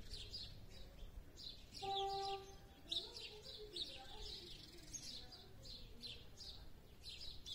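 Small birds chirping on and on, quick high down-slurred chirps several times a second. About two seconds in, a brief steady tone sounds for under a second, louder than the birds.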